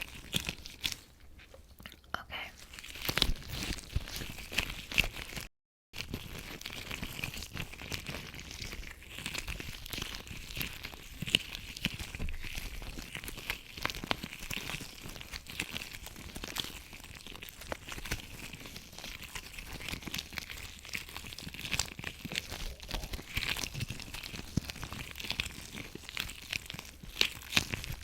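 Latex gloves rubbed, stretched and squeezed close to the microphone, a dense crackly rubbing with sharp squeaky snaps. It breaks off into silence for a moment about five and a half seconds in.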